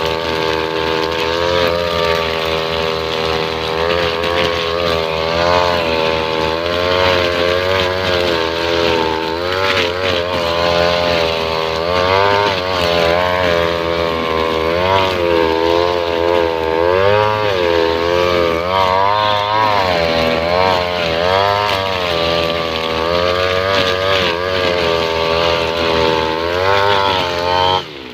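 Two-stroke 328 brush cutter with a nylon-line blade trimmer head running, its engine pitch rising and dipping again and again as the head cuts. The sound drops off sharply just before the end.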